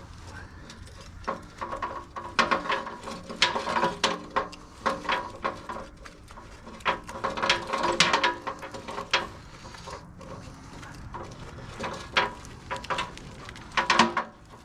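Hand wire cutters working at a frayed steel winch cable, a run of sharp metallic clicks and snaps with a brief ring. The cutters are not getting through the cable.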